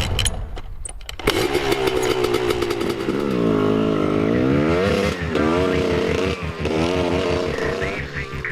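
GAS GAS EC 250 two-stroke dirt bike engine revving up and down as it is ridden. It drops in pitch and climbs back several times, with a short lull about a second in.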